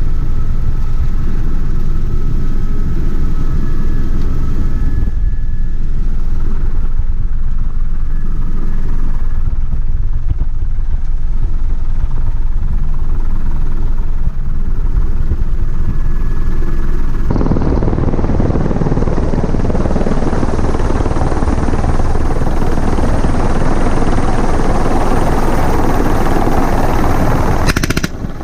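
Helicopter engine and rotor running steadily, a loud low rumble with a faint steady whine. About two thirds of the way through it turns brighter, with more rushing air noise. At the very end a short burst of rapid sharp reports begins.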